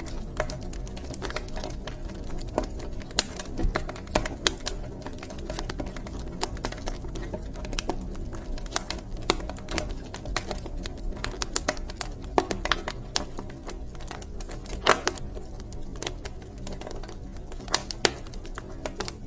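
Wood fire crackling in a fireplace: irregular sharp pops and snaps, some much louder than others, over a steady low rumble of burning.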